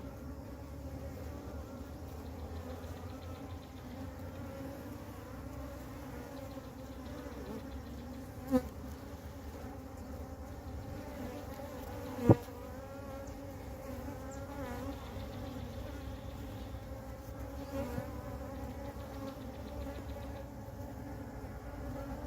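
Honeybee swarm buzzing in a steady, dense hum. Two brief sharp knocks stand out partway through; the second is the louder.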